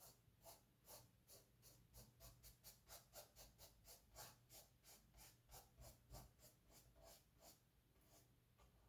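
Faint, quick strokes of a paintbrush on canvas, about three a second, stopping near the end.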